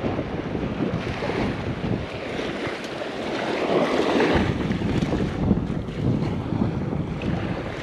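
Strong wind buffeting the microphone over breaking surf, with the low wind rumble easing off briefly midway.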